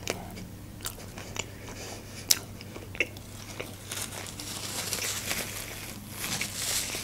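Close-miked chewing of a bite of fried-chicken burger, with a few sharp wet mouth clicks, one much louder about two seconds in. Near the end a paper napkin rustles against the lips as the mouth is wiped.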